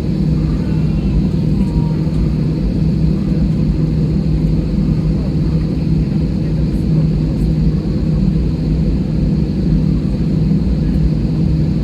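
Steady cabin drone of an airliner idling on the ground with its engines running: a constant low hum over a rumble.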